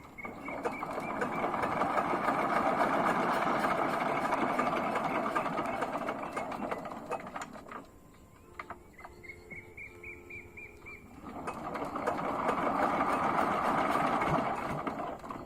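A hand-cranked machine whirring as its handle is turned, in two long spells that each swell up and die away, with a thin high whine rising just before each spell.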